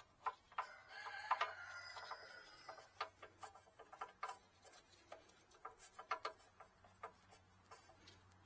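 A rooster crowing once, starting about a second in and lasting about a second and a half, over irregular light clicks and taps.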